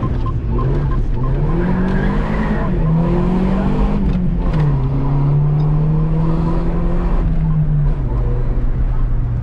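Car engine heard from inside the cabin, pulling under acceleration: its pitch climbs, drops at two gear changes, about two and a half and four and a half seconds in, then holds steady before easing lower near the end.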